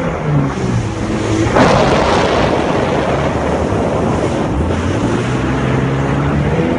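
Jet ski engine dropping in revs and then running at low revs, with a rush of water spray about a second and a half in and wind on the microphone.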